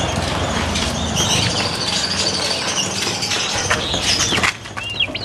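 Birds chirping over a steady rushing noise, which drops away about four and a half seconds in.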